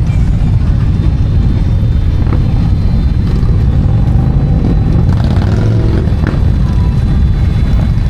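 Motorcycle under way on the road, with steady, loud, low engine and wind noise.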